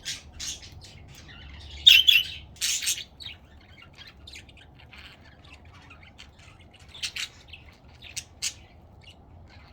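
Pet budgerigars chattering and squawking: short high chirps throughout, two loud squawks about two and three seconds in, and a few sharper calls near the end.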